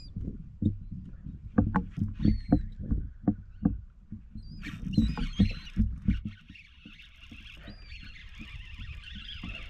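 Knocks and bumps against a kayak's hull as the angler moves and handles gear, a few a second for about six seconds, then a steady hiss takes over from about five seconds in. Faint high chirps of birds overhead.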